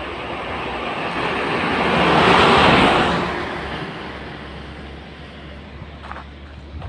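A road vehicle passing close by. Its tyre and engine noise swells to a peak about two and a half seconds in, then fades away.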